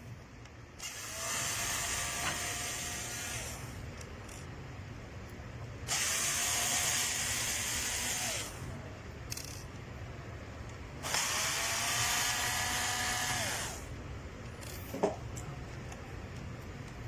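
A small electric motor runs in three separate bursts of about three seconds each; each time its whine holds steady, then drops in pitch as it winds down. A single sharp click comes near the end.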